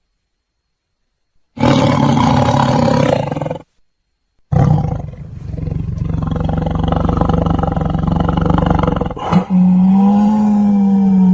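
Deep monster roars made as sound effects for Mongo, the giant gingerbread man: a short roar about a second and a half in, then after a brief pause a long, deep roar that runs on for most of the rest.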